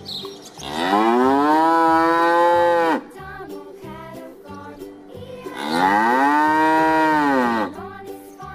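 A cow mooing twice, two long calls that rise in pitch, hold, then drop off at the end. Light background music plays underneath.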